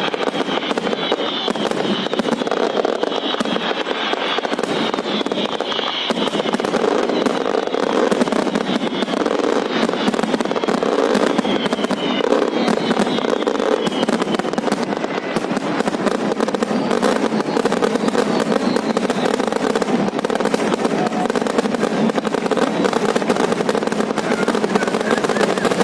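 Fireworks going off in a dense, unbroken barrage of crackles and bangs, the closing stretch of the display. A few falling whistles can be heard in the first half.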